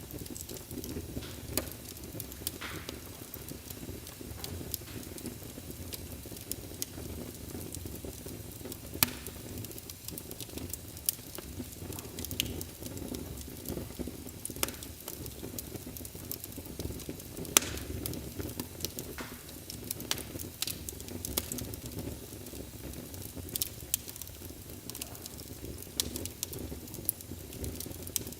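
Wood fire burning in a fireplace: a steady low rumble and hiss with irregular sharp crackles and pops, a few of them louder, one about nine seconds in and one just past halfway.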